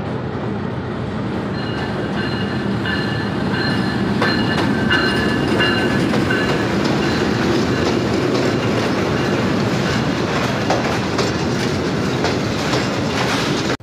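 Pakistan Railways diesel locomotive and passenger coaches running past a station platform: a steady rumble of engine and wheels with clicking over the rail joints. A high, thin squeal rises over it for the first few seconds.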